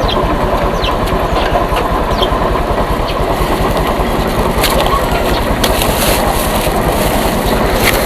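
Motorcycle engine running while riding, with steady road and wind noise on the microphone.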